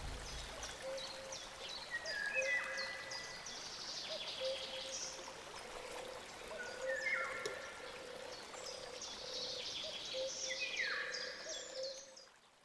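Birds singing outdoors: many short high chirps and, every few seconds, a short phrase of stepped falling notes, over a steady background hiss. It all fades out near the end.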